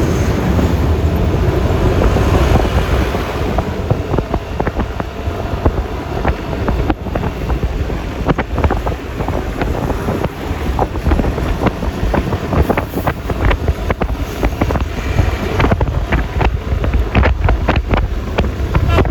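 Wind rushing over the microphone and road noise from a moving Yamaha Lexi LX 155 scooter. The noise is loud and low, with many short crackles of wind buffeting from about four seconds in.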